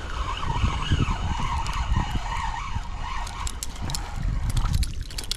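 Spinning reel being cranked to bring in a small mangrove snapper: a wavering whir that rises and falls with the turns of the handle, fading about four seconds in, followed by quick clicks and rattles.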